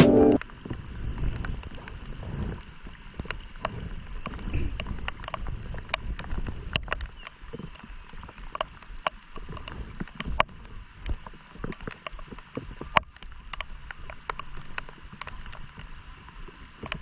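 Steady hiss of a flowing river with many irregular small clicks and taps over it.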